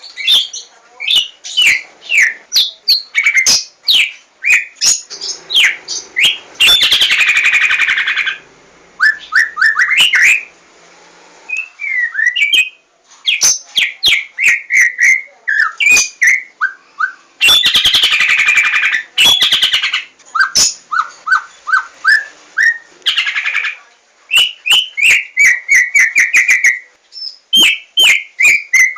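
White-rumped shama (Javan murai batu) singing loud and close: a fast, varied string of clear whistles and sweeping notes mixed with sharp clicks. The song breaks into harsh chattering runs a few times, about a third of the way in, past the middle and again shortly after.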